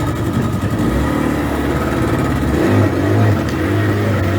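An engine running and picking up speed, its note stepping up about a second in and again past the middle.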